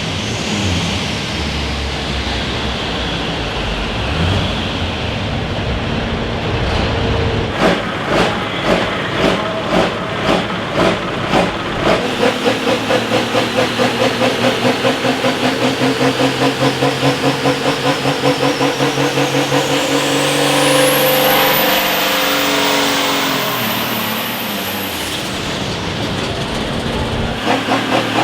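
Engine of a pulling vehicle running. A regular pulsing starts about eight seconds in and quickens to about three beats a second, and a high whine rises and falls near the end.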